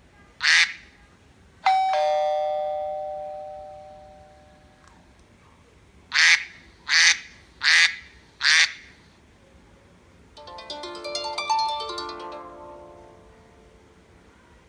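Classic iPhone ringtones played in turn on an iPhone 4's speaker. First comes a short squawk, then a two-note doorbell chime that rings out over about three seconds, then four duck quacks. From about ten seconds in, the plucked harp ringtone plays a melody that fades away.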